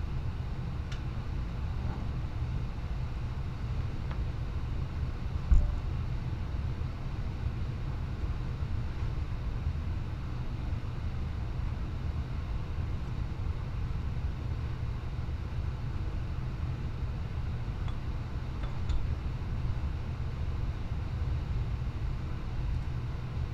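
Hand-tool work on an ATV's rear differential: a few faint clicks and one sharp knock about five and a half seconds in, over a steady low rumble.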